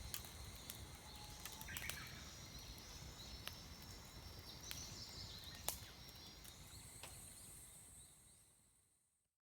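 Wood campfire crackling with scattered sharp pops, small birds chirping now and then over a steady hiss; it all fades out to silence near the end.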